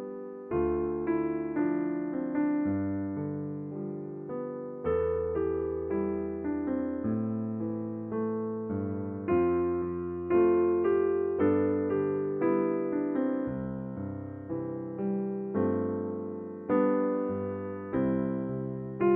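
Slow, soft electric piano background music: single notes and chords struck about once a second, each fading away before the next.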